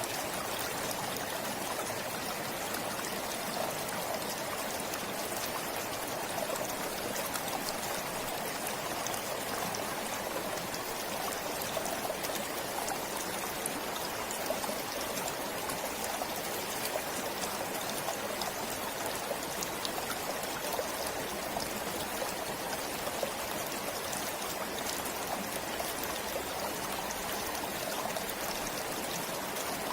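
Forest stream flowing, a steady rush of running water with a fine trickling spatter.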